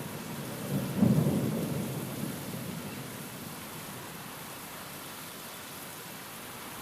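Thunder over steady rain: a low clap about a second in that rumbles and fades away over the next couple of seconds, leaving the even hiss of the rain.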